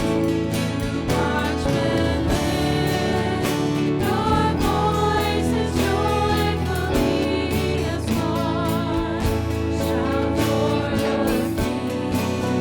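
Church music: voices singing a hymn over instrumental accompaniment.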